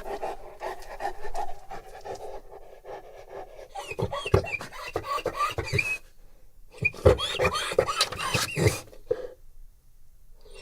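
A Bullmastiff panting deeply and heavily, with two louder bouts of wet mouth noises about four and seven seconds in.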